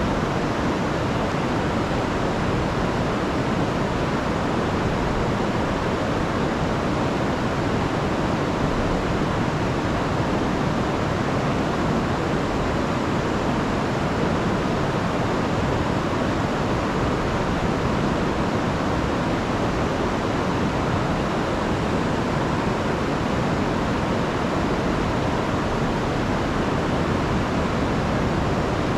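Rain-swollen river rushing over falls: a steady, loud roar of churning water that stays even throughout.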